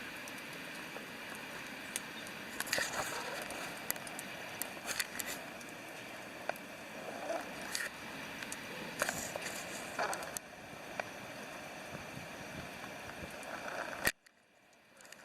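Wood campfire crackling, with scattered sharp pops and snaps, over the steady rush of a river. The sound cuts out abruptly near the end.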